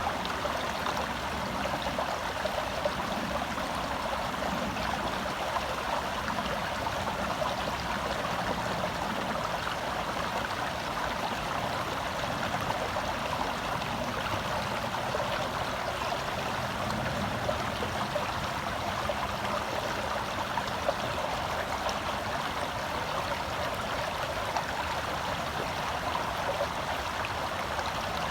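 Forest stream flowing over rocks, a steady close rush and babble of water.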